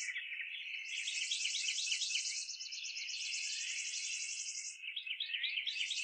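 Songbirds chirping with quick rising and falling notes, over a high, rapid trill that breaks off and starts again a few times.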